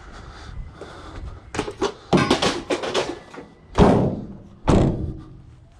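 Scrap junk being loaded into a vehicle: a clatter of knocks and thumps, then two loud heavy thuds about a second apart near the end.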